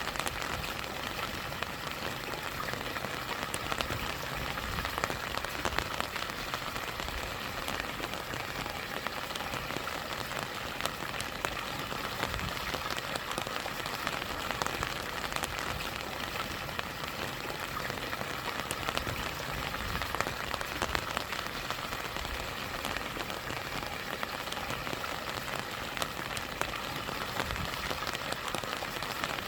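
Steady rain with many separate drop hits, over the constant rush of a small stream and waterfall.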